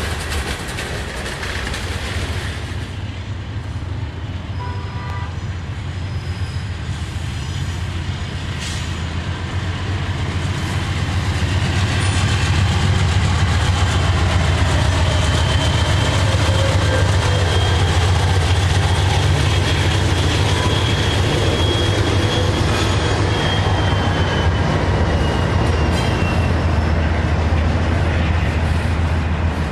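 Freight train rolling by: diesel locomotive rumble and rail cars on the track, growing louder about ten seconds in, with a thin high wheel squeal that slides down in pitch near the end.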